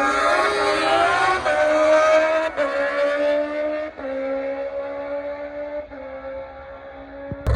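Drag car engine accelerating hard down the strip, shifting up through the gears about four times, each shift a sudden drop in pitch, fading as the car pulls away. Near the end it cuts to a louder, deeper engine rumble.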